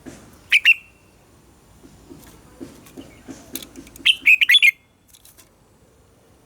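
Red-whiskered bulbul singing: a short, loud two-note phrase about half a second in, then a quick run of loud clear notes about four seconds in.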